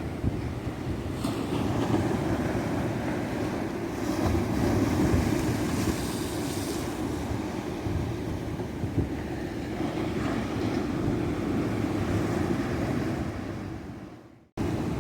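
Tropical ocean surf breaking on a beach: a continuous wash of waves that swells and eases as sets come in. Near the end the sound fades away for a moment and then cuts back in abruptly.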